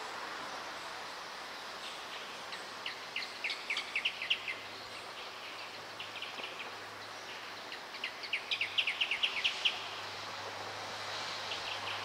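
A pair of rufous horneros calling in duet: two bouts of rapid, repeated high notes, the first about three seconds in and the louder second around eight to ten seconds, over a steady background hum.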